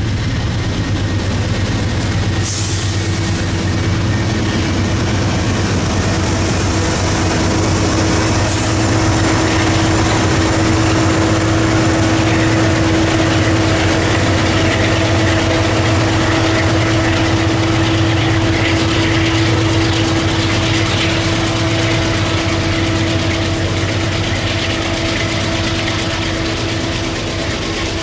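Freight train rolling past: covered hopper cars with steel wheels on the rails, then diesel locomotives at the rear of the train running with a steady low hum. The sound eases slightly near the end as the train moves away.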